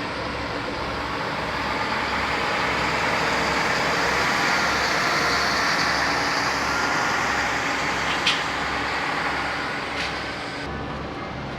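Road vehicle noise, swelling to a peak in the middle and then easing off, over a steady low rumble, with two short sharp clicks near the end.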